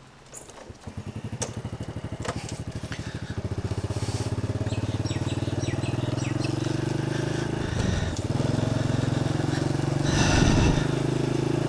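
Motorcycle engine starting about a second in, its firing pulses settling into a steady run that slowly grows louder as the bike gets under way. There are two brief noisy bursts near the end.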